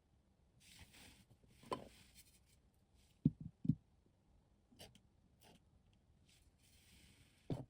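Small hand work at a bench: a few short rubbing strokes and light knocks of small parts or tools, with a quick cluster of three knocks about three seconds in and another knock near the end.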